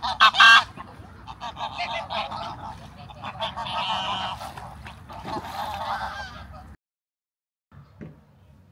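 Geese honking over and over, the calls loudest in the first second. The honking cuts off abruptly near the end.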